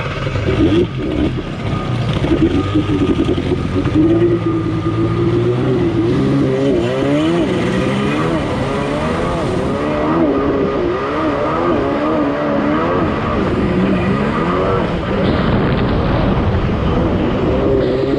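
Kawasaki X2 jet ski's 650 cc two-stroke twin running under way, its pitch rising and falling with the throttle. The owner says it is running rich.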